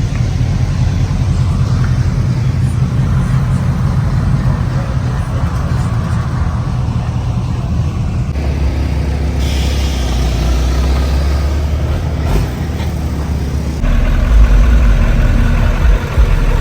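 Truck engines running with a heavy low rumble, the sound changing abruptly several times and loudest in the last few seconds.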